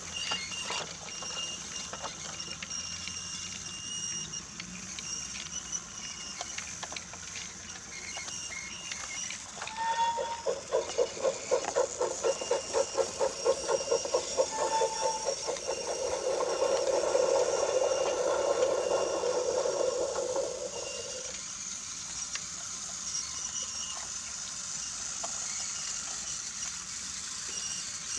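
Battery-powered Brio wooden toy train running on wooden track, its small motor whirring steadily with light clicks from the wheels. About ten seconds in, a louder pulsing hum of about six beats a second starts, turns steady, and cuts off about two-thirds of the way through.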